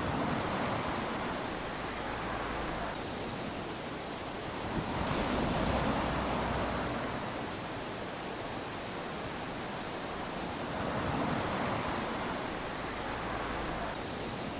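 Small waves lapping onto a sandy shore, each wash swelling and fading over a few seconds, with three swells.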